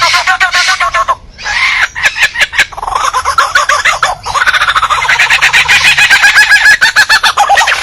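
A mimicking songbird singing a run of rapid chattering, trilling notes, broken by a string of sharp clicks about two seconds in before a long fast warble.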